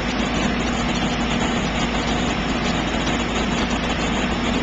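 Fire engine running steadily while it pumps water out through its jets: an even engine drone with a steady hum.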